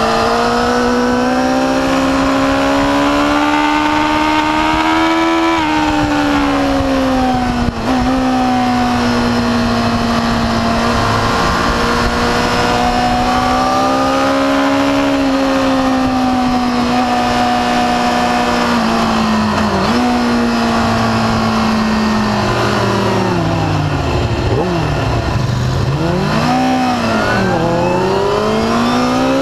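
Yamaha R6 600 cc inline-four racing engine at high revs on board the bike. Its pitch climbs steadily, with quick drops at gear changes. About three-quarters of the way in it falls in steps through downshifts under braking, then rises again as the bike accelerates.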